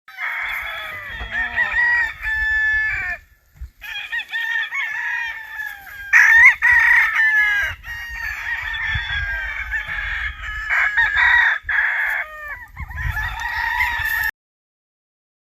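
Several gamefowl roosters crowing over one another, with clucking among them. The sound cuts off abruptly near the end.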